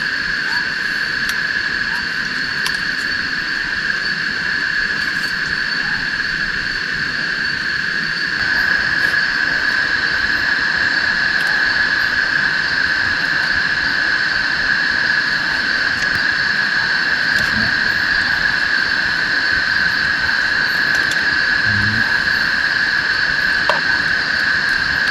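Steady rain hiss with a constant high-pitched drone over it, which grows louder about eight seconds in.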